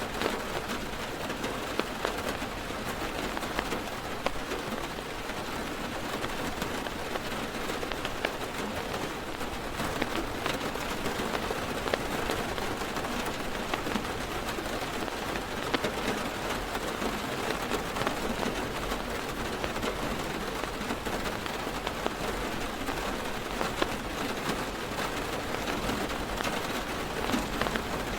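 Heavy rain falling on a parked car's roof and windows, heard from inside the car: a steady dense hiss threaded with many small drop ticks.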